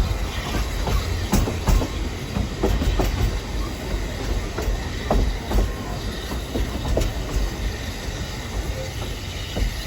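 Narrow-gauge train running along the track: a steady low rumble with frequent irregular clicks and knocks from the wheels on the rails.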